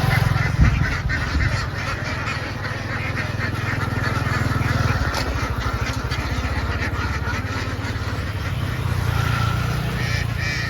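A large flock of ducks quacking and honking continuously, many calls overlapping. A steady low hum runs underneath, and a sharp knock sounds about half a second in.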